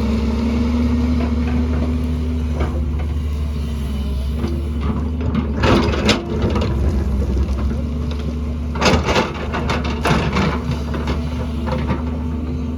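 Excavator engine running steadily, with a few loud clattering, crunching knocks of the bucket on rock and mud, strongest around the middle and again about two-thirds of the way in.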